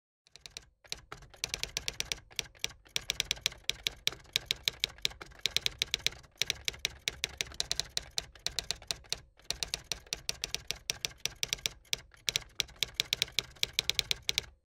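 Typing: runs of quick keystroke clicks, several a second, broken by short pauses a few times and stopping abruptly near the end.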